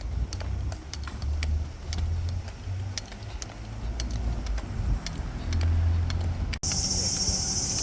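Low rumble of a moving vehicle, uneven in strength, with scattered light clicks and rattles. About six and a half seconds in it cuts abruptly to a loud, steady, high-pitched insect chorus.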